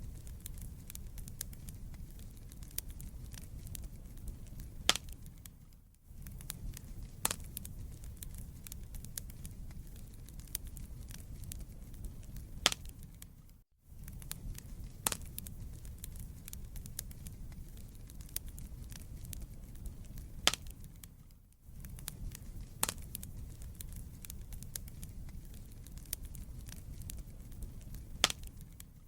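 Wood fire burning in a fireplace: dense small crackles and a few louder sharp pops over a low steady rumble. The sound fades out briefly and returns about every eight seconds.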